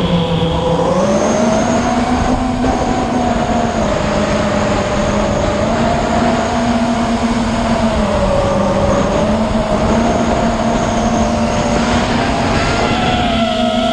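A motor's steady drone, its pitch slowly wavering up and down, over heavy wind noise buffeting the microphone.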